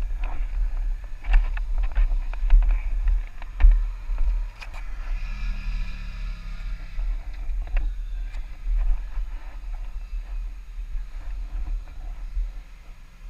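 Wind buffeting a motorcycle-mounted microphone on the move: a heavy low rumble with scattered knocks. About five seconds in, an engine note sounds for a couple of seconds, falling slightly in pitch.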